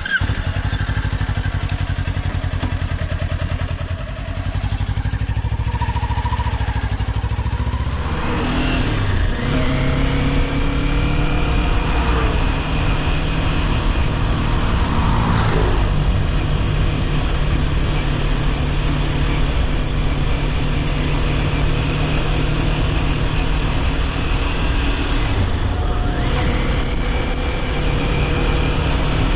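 Kawasaki Ninja 400's parallel-twin engine running at low revs, then revving up about eight seconds in and again a little later as the bike gets under way, then running steadily at speed.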